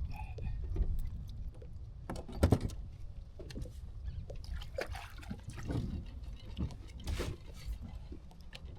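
Knocks and clicks of gear and a landed fish on a plastic fishing kayak, scattered irregularly over a low rumble, with a sharp knock about two and a half seconds in and another near seven seconds.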